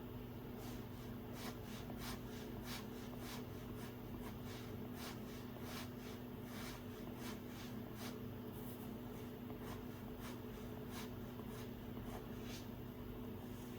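Stylus tip tapping and sliding on an iPad's glass screen in short, irregular drawing strokes, a few per second, over a steady low hum.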